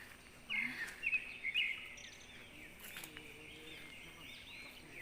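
Birds chirping outdoors, with a quick run of loud, sharp chirps in the first two seconds, then softer calls over a steady high-pitched background hiss.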